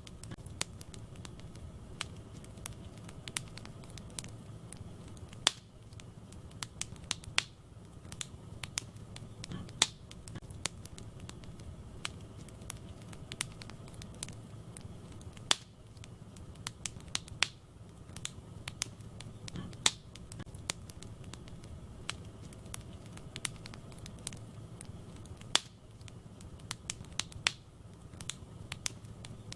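Wood fire burning in a fireplace: constant crackling, with frequent small snaps and a louder sharp pop every few seconds, over a low steady rumble of the flames.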